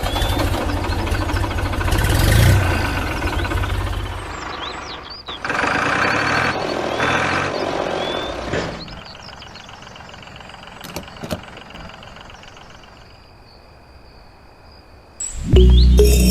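An engine running with a rapid, even chugging beat, in several cut-together stretches: loud at first, then quieter through the second half. Music comes in near the end.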